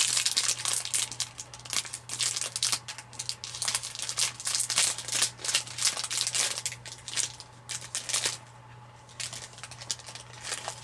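Snack wrapper crinkling as it is opened by hand, a dense run of crackles that thins to a few clicks about eight seconds in.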